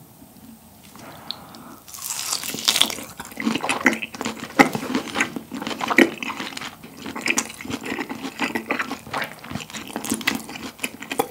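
Close-miked biting and chewing of a seared Iberico bellota pork French rack dabbed with wasabi. After a quiet start, a bite comes about two seconds in, then steady, wet, smacking chewing with many small clicks.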